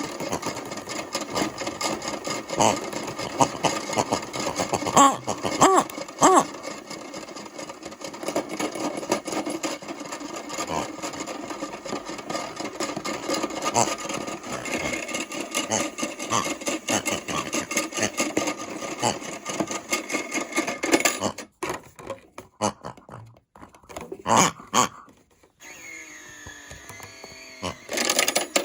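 Toy washing machine's small motor spinning the drum, with a steady rattling whir. It stops about three-quarters of the way through, followed by a few clicks, and starts up again just before the end.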